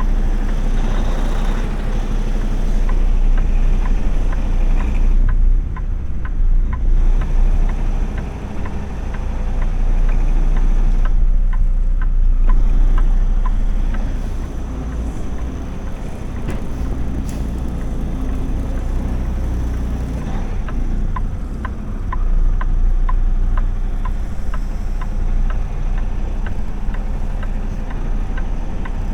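Semi-truck running down the road, heard from inside the cab: a steady low engine and road rumble, with a regular series of light ticks over it.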